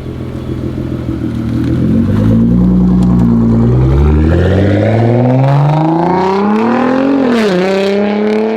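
2016 Nissan GT-R's twin-turbo V6 with a straight-piped exhaust accelerating hard, the engine note climbing steadily in pitch for several seconds, dipping briefly about seven and a half seconds in, then running steady.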